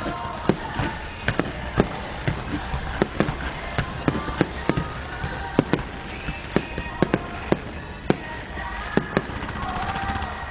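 Fireworks shells bursting in a quick, irregular series of sharp bangs, about two a second, with music playing underneath.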